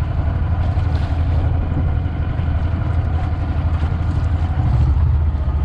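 Motor of a Mokai jet-propelled kayak running steadily on the water, with wind and water noise over it.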